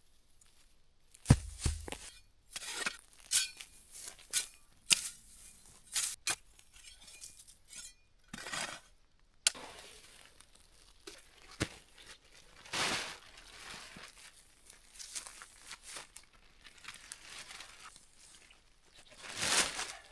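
Irregular knocks, clinks and crinkling rustles of things being handled, with a longer rustle near the end.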